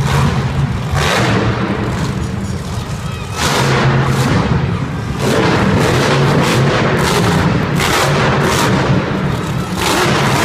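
Monster truck engine running very loud, a steady low rumble with repeated hard revving surges and bangs.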